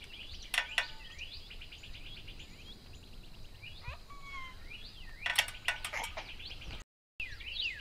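Wild birds calling outdoors: repeated short rising chirps and quick trills, with a couple of whistled notes about four seconds in. A few sharp clicks or knocks come under them, once early on and again as a quick cluster about five seconds in.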